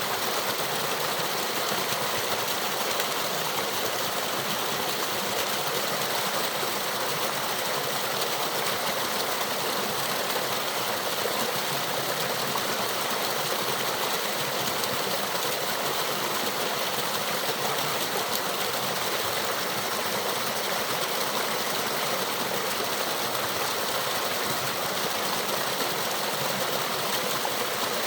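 Small stream and waterfall rushing steadily, an even hiss of flowing water.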